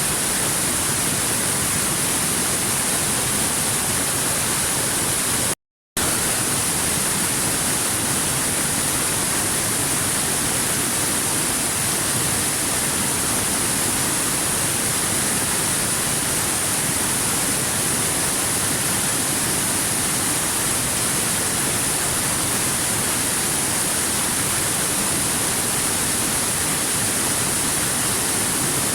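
Steady, even rushing of a waterfall, unchanging throughout, with a brief total dropout to silence about six seconds in.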